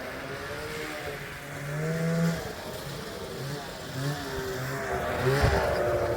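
Snowmobile engine revved up and down several times as its tracks, frozen to the ground with ice, drag and resist moving, with a single knock about five seconds in.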